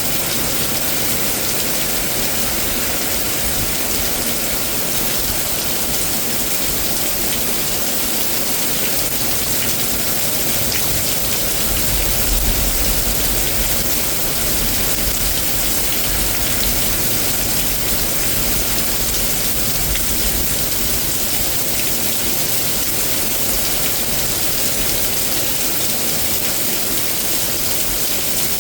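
Heavy rain pouring down steadily during a severe thunderstorm. A low rumble swells briefly about twelve seconds in.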